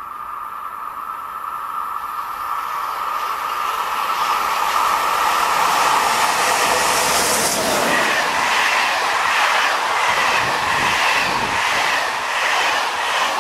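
Passenger train hauled by a BB 22200 electric locomotive approaching and passing close by on a tight curve. The noise builds steadily to a loud rush as the locomotive goes by about six seconds in, then the coaches follow with a regular clatter of wheels over the rail joints. A steady high wheel squeal from the curve runs underneath.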